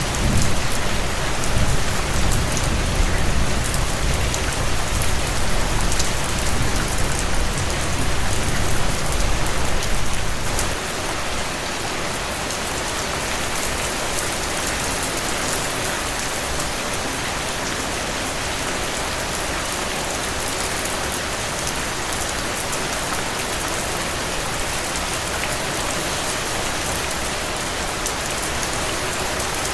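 Steady heavy rain falling, an even hiss of many drops. A deep low rumble runs under it for about the first ten seconds, then cuts off abruptly.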